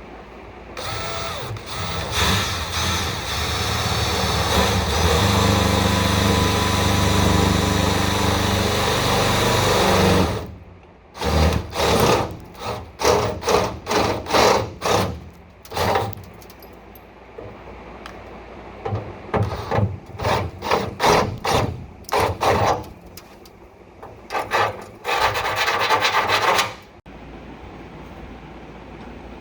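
Power tool running, first for a long stretch of about nine seconds, then in many short bursts.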